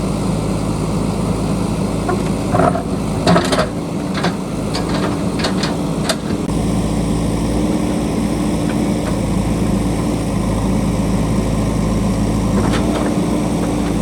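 JCB backhoe loader's diesel engine running steadily, with a cluster of sharp knocks and scrapes about three to six seconds in, typical of the bucket working against rock and stones.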